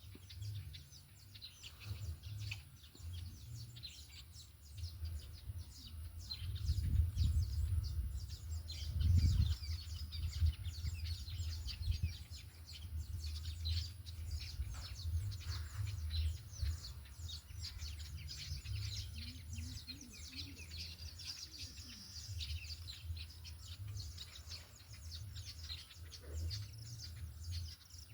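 Many small birds chirping and calling continuously, over a low rumble that swells loudest a few seconds in.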